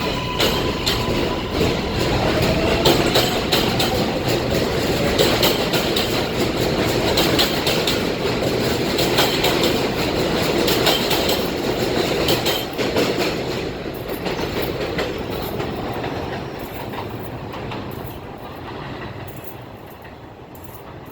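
New York City subway J train pulling out along the elevated Jamaica Line: wheels clacking over the rail joints, with a faint rising motor whine as it gathers speed. The sound fades away over the last several seconds as the train leaves.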